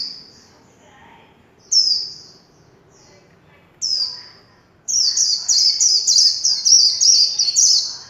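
White-eye (vành khuyên) singing. Three sharp, high, falling notes about two seconds apart, then a rapid warbling run of high notes lasting about three seconds: the trilled 'líu' song that keepers train for.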